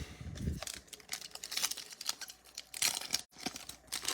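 A foil trading-card pack wrapper crinkling and tearing open as cards are handled: a string of irregular crackles, thickest near the end.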